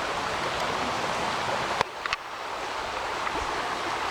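Creek water rushing steadily. Just under two seconds in there is a sharp click, and the water then sounds a little quieter for a moment.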